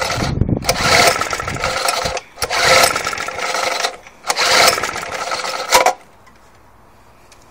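Suffolk Punch 35S lawnmower being pull-started: three pulls of the recoil starter, each cranking the engine over for about a second and a half. The engine does not fire, as the tank has no petrol in it yet.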